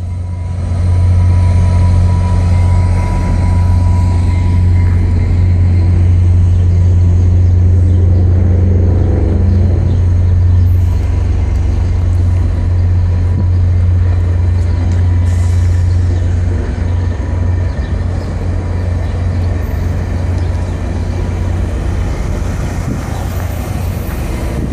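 VIA Rail diesel passenger train leaving the station, its locomotive running with a loud, steady low drone.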